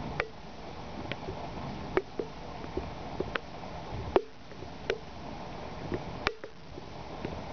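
Steady rain with a dozen or so sharp drips ticking at irregular intervals.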